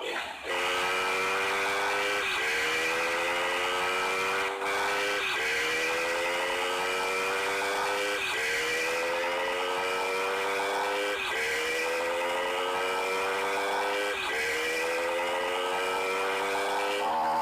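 Motorcycle engine accelerating hard, its pitch climbing for about three seconds and then dropping sharply, over and over, as the rider shifts up through the gears.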